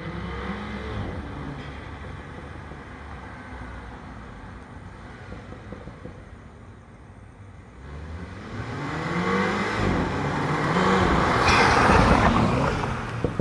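Stock 2.0-litre turbocharged four-cylinder of a 2015 Mini Cooper S F56, heard through its factory exhaust: a steady engine drone for the first half, then the engine accelerating hard from about two-thirds of the way in. Its pitch rises, dips once and rises again, getting louder and harsher up to the loudest moment near the end.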